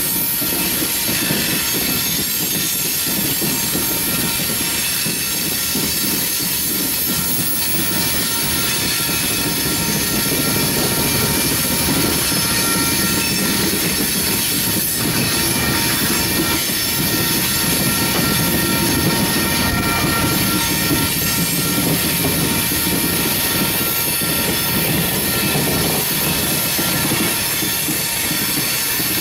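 Coal train hopper cars rolling past with a steady, unbroken noise of steel wheels on rail. A few steady high-pitched tones ride over it.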